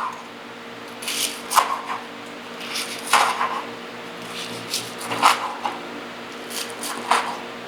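Knife sawing through the crisp panko crust of fried chicken cutlets, a series of short crunching, rasping strokes at irregular intervals.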